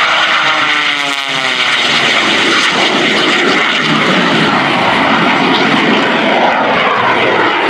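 Jet-powered Waco biplane flying past, its radial piston engine and underslung turbojet running together in a loud, steady noise. The pitch drops about a second in as the aircraft goes by.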